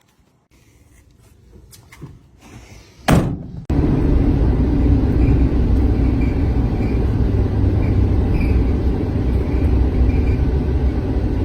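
A van door slams shut about three seconds in. Then a steady, loud, low vehicle rumble starts abruptly, from the Sprinter van, and runs on unchanged.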